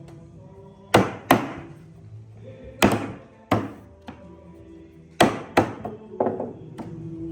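Hammer blows on wood: about six sharp strikes in three close pairs, with a couple of lighter taps near the end.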